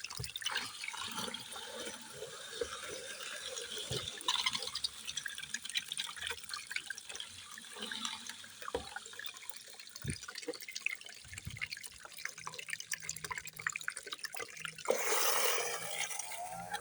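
Water gurgling, crackling and dripping as a handheld vacuum cleaner sucks it up, with a louder rushing splash about fifteen seconds in.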